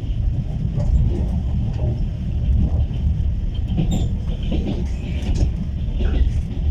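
Passenger train car running on the rails, heard from inside: a steady low rumble of wheels and carriage, with faint scattered clicks and knocks.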